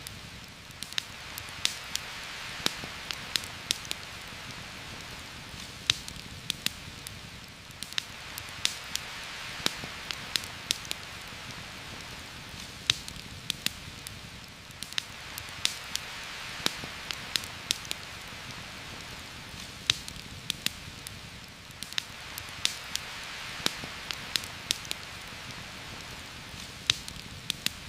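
Heavy rain hissing steadily through a forest canopy, swelling and easing about every seven seconds, with scattered sharp ticks and pops a few times a second.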